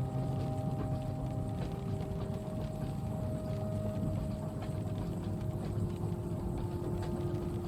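Inside a moving train carriage: a steady low rumble of the train running, with a constant hum and faint, scattered clicks, under a soft hiss of rain on the window.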